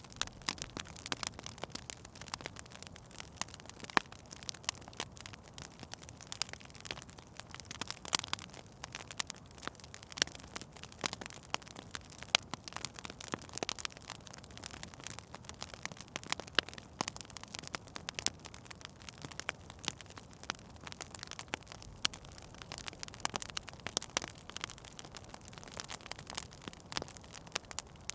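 Wood fire in a fireplace crackling, with frequent irregular sharp snaps over a faint steady hiss.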